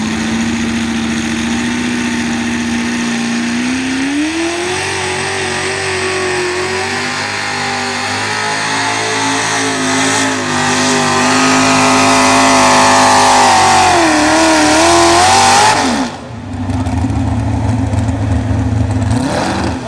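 Two-wheel-drive super stock pulling truck's engine at high revs under load, its pitch climbing about four seconds in and holding, wavering near the end of the run before cutting off sharply. A lower, steady engine rumble follows.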